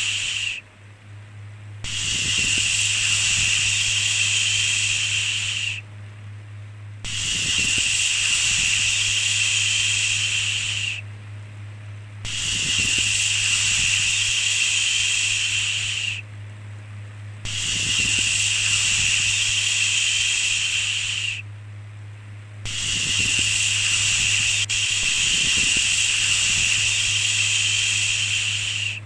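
A repeated long 'shhh' shushing sound. Each hiss lasts about four seconds and breaks for about a second before the next, five times in a row, with the last one running somewhat longer. A steady low hum continues underneath.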